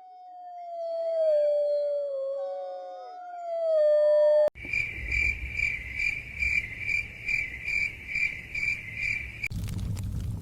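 Several canines howling together in long, overlapping, slowly falling notes. About four and a half seconds in, this cuts off abruptly to crickets chirping in an even pulse, about two to three chirps a second. About a second before the end, a low rumble with scattered crackles comes in.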